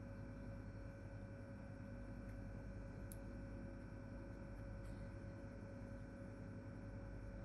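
Low, steady electrical hum with faint room hiss, and a single faint click about three seconds in.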